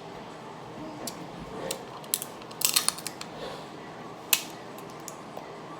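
Sharp clicks and cracks from handling and eating food, with a cluster of them in the middle and one louder crack near the end.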